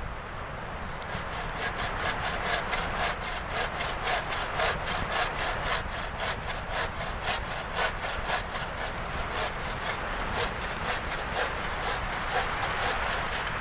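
Hand saw cutting through wood in steady back-and-forth strokes, about four a second, starting about a second in.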